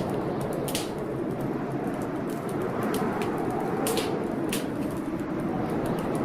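Wood fire crackling in a fireplace, with sharp irregular pops a few times a second, over the steady low rushing of a storm.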